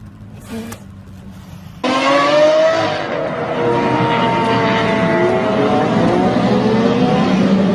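Car engine cutting in abruptly about two seconds in and running loud under acceleration, its pitch rising and falling as it revs. Before that, a brief quiet stretch.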